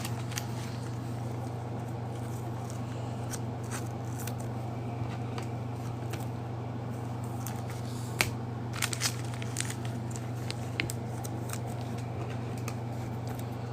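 Trading cards and pack wrappers being handled, with a few scattered clicks and rustles, mostly about eight to eleven seconds in, over a steady low hum.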